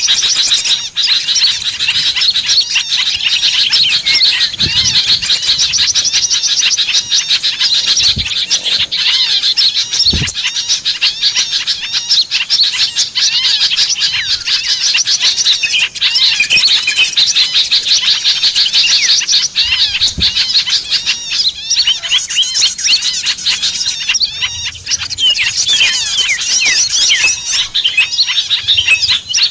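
Dense, unbroken chatter of many small birds: quick, high chirps and twitters overlapping throughout. This is a bird-lure recording played to draw small birds in. A couple of faint low thumps come about a third of the way through.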